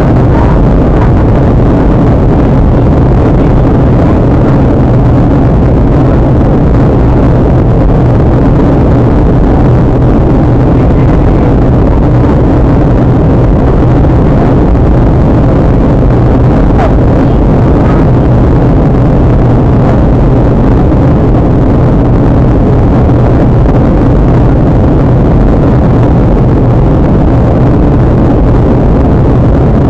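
Steady cabin drone of a Boeing 737-800 in flight, its CFM56 jet engines and the airflow over the fuselage making an even rushing roar with a low hum, unchanging throughout.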